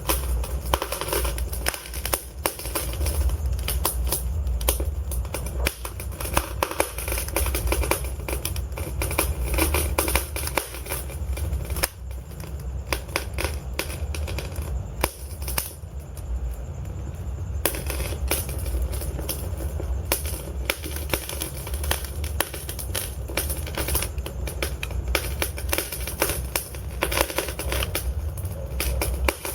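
Wood fire of burning logs crackling and popping in dense, irregular snaps over a steady low rumble of the flames, with a brief lull in the crackling a little past halfway.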